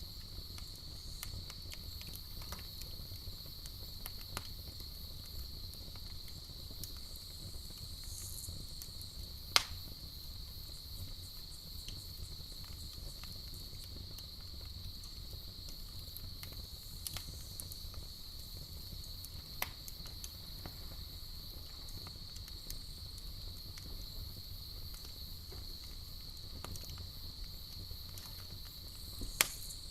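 Campfire crackling with scattered sharp pops, the loudest about ten seconds in and again near the end, over a steady high chorus of night insects and a low rumble.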